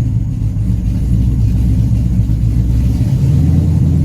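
Chevy C10 race truck's engine idling steadily with a low rumble, still warming up from cold.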